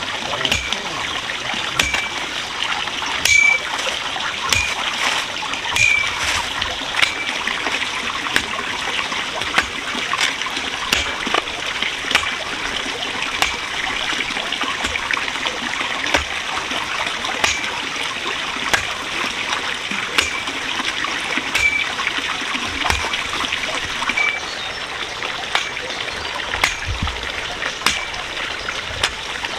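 Water trickling and splattering steadily, with frequent small splashes or clicks. A short high chirp repeats every second or so.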